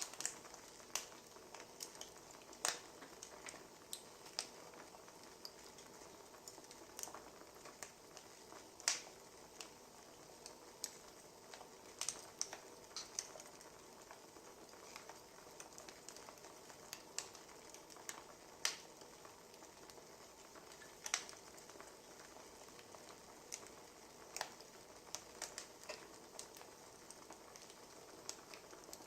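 Wood fire crackling: irregular sharp pops and snaps, several a second at times, over a faint steady hiss.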